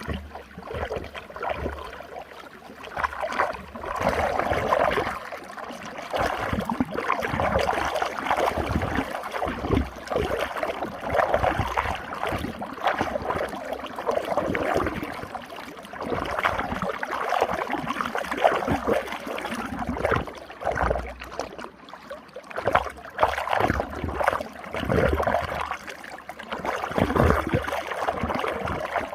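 Running water swirling in a whirlpool, a steady rush with irregular gurgles and splashes.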